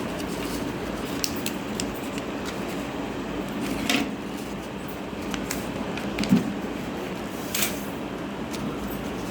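Handling noises from crafting work: a few scattered short clicks and rustles, the loudest about six seconds in, over a steady low hum.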